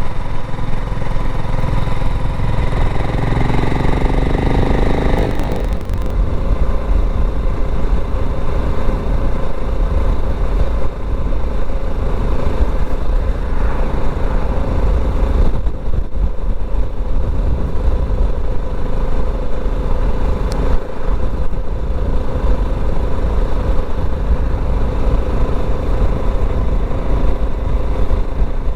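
BSA Gold Star 650 motorcycle engine running at road speed, heard from the bike with heavy wind and road rumble on the microphone. A few seconds in, the engine's pitch climbs steadily and then drops sharply, after which it runs on evenly.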